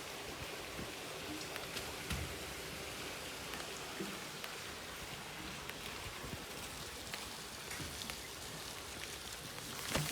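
Steady rain falling: an even hiss scattered with sharp drip ticks, and a louder tap near the end.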